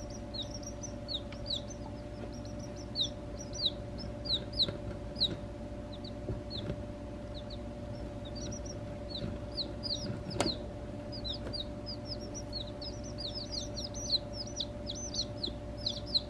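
Baby chicks peeping: many short, high, falling cheeps that come thicker toward the end, over a steady low hum, with one sharp click about ten seconds in.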